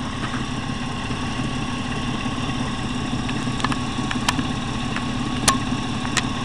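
Vehicle engine idling with a steady hum, with a few sharp clicks in the second half.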